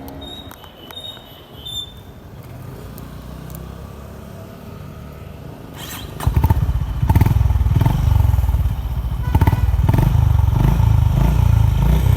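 Honda H'Ness CB350's single-cylinder engine and exhaust running with a deep, pulsing beat. It is faint at first and becomes much louder about six seconds in.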